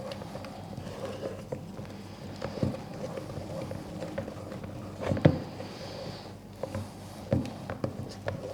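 Wooden spoon stirring thick chocolate brownie batter in a mixing bowl: irregular scraping with knocks of the spoon against the bowl, the loudest about five seconds in.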